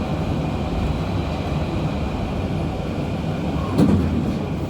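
UKVZ KTM-23 (71-623-04.01) tram running along the track: a steady low rumble with a faint steady high tone, and a single sharp knock near the end.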